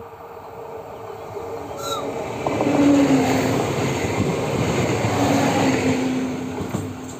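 Double-deck passenger train passing close by: the running noise of wheels on rails swells as it approaches, stays loud for a few seconds while the coaches go past, then fades, with a steady low hum at times during the pass.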